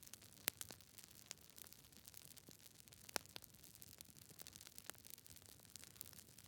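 Campfire crackling: burning wood gives off irregular sharp pops and snaps over a faint steady hiss, the loudest pops about half a second in and about three seconds in.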